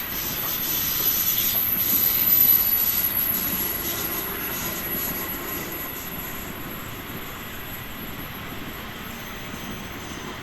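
A train passing by with a broad rumbling roar that swells to its loudest about two and a half seconds in, then slowly fades.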